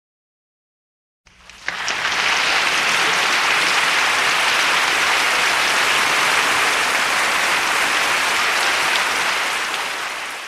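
Applause: a dense, steady crowd of clapping that starts after about a second of silence and fades out near the end.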